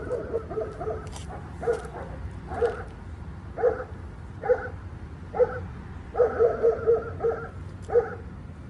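Dogs barking in short, evenly spaced barks, about one a second, with a quick run of barks about six seconds in.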